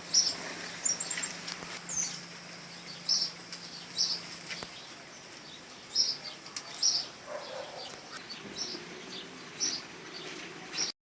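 Small birds chirping, short high chirps repeated irregularly over a faint background hiss; the sound cuts off abruptly near the end.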